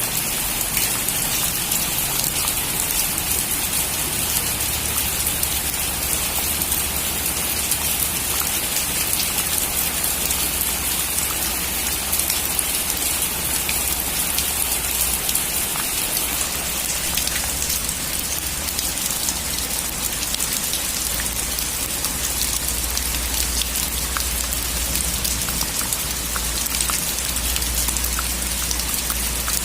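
Steady heavy rain on a metal roof, a dense even hiss with many individual drops ticking sharply on the metal.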